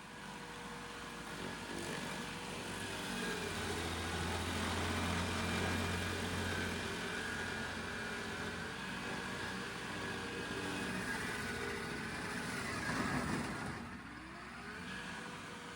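Engine of a remote-controlled stump grinder running steadily, with a rising whine near the end.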